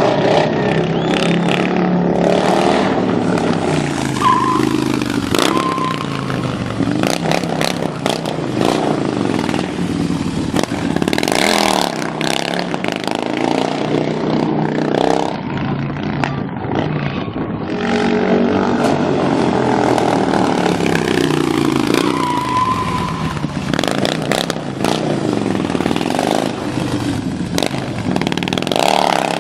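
Heavy motorcycle engine revving up and down again and again during stunt riding, with occasional short clatters and scrapes.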